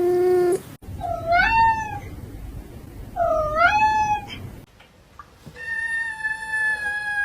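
Domestic cats meowing, cut together from separate recordings: a short, flat meow, then two meows that dip and rise in pitch about two seconds apart, then one long, drawn-out meow that sinks slightly in pitch, starting about five and a half seconds in. The background changes abruptly between them.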